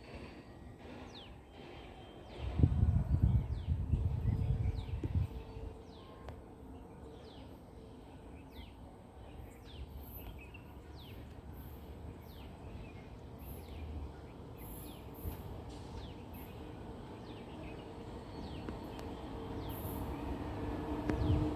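Birds chirping over low background noise, many short calls that fall quickly in pitch. A loud low rumble starts about two and a half seconds in and lasts some three seconds. Near the end a low hum with a steady tone grows louder as a train approaches.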